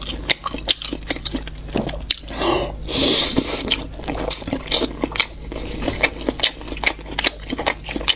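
Close-miked chewing of fried skewered food: a steady run of quick, wet crunches and mouth smacks, with one longer, louder burst of noise about three seconds in.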